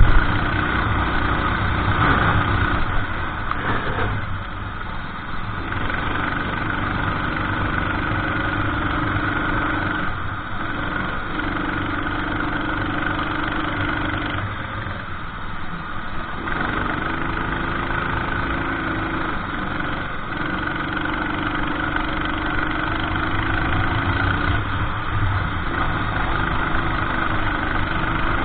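Racing kart's engine heard on board, its pitch falling and dropping away several times as the driver lifts off for corners, then picking up again under acceleration.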